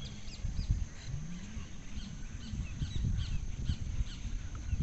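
Birds calling, a running series of short high chirps, over low wind rumble on the microphone.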